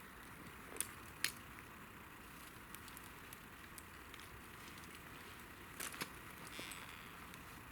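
Wood campfire crackling softly over a steady hiss, with sharp pops: two about a second in and two more close together near six seconds.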